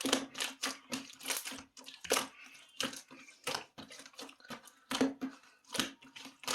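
Homemade slime being squeezed and poked by hand, giving a run of crackling, clicky squishes about two to three a second.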